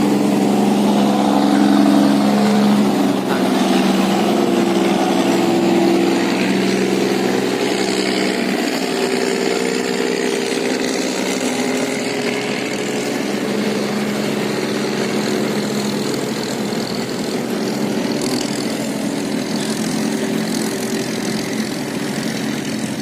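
Engines of several boats running as they pass close by, a mix of overlapping steady engine tones, loudest at first and easing off after about eight seconds.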